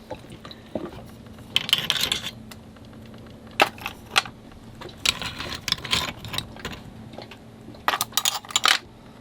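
Dishes and utensils clinking and clattering as food is served: scattered sharp clinks and short runs of rattling, the busiest about two seconds in and near the end, over a faint steady hum.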